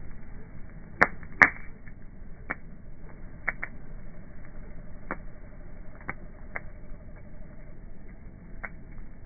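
Wood bonfire crackling, slowed down: scattered sharp pops of burning wood over a low steady background, with two loud pops close together about a second in.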